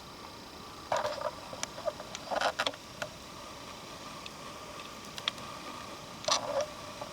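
Dry leaves and twigs crunching and rustling in three brief clusters, about a second in, around two and a half seconds in, and near the end, over a steady faint hiss.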